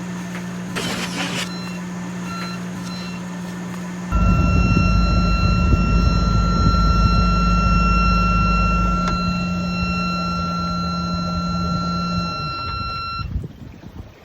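Sailboat's inboard engine running while its alarm beeps: a few short beeps at first, then, over louder engine noise, one long steady beep for about nine seconds that stops. The alarm came with a battery warning icon on the engine panel; the crew suspects the battery is getting too much charge, over 16 volts.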